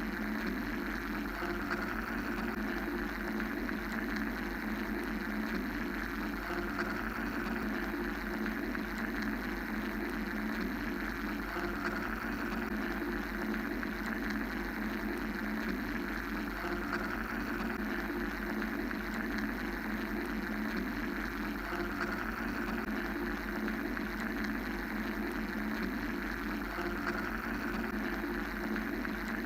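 A continuous mechanical white-noise drone: an even hum and hiss that keeps a steady level, with a brighter upper layer that slowly swells and fades every few seconds.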